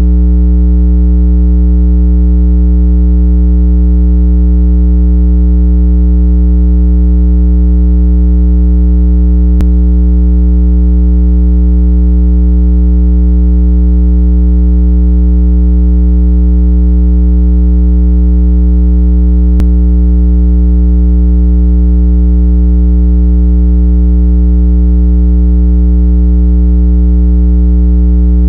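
Loud, unbroken electronic test tone, billed as 165 Hz, played to shake water out of earbud and phone speakers. It is a steady low hum with fainter higher overtones, never changing in pitch, with a faint click about every ten seconds.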